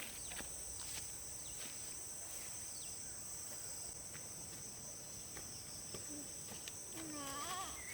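Steady chorus of crickets, a high, even trilling. About seven seconds in, a brief wavering call with a rising and falling pitch sounds over it.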